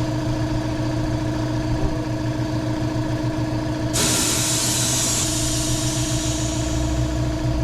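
Compressed air hissing from a Coats RC10A tire changer, starting suddenly about four seconds in and easing off, over an engine running steadily.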